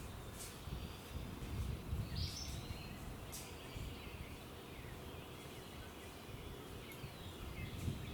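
Birds chirping and calling in short phrases, with a few soft clicks and a low rumble underneath.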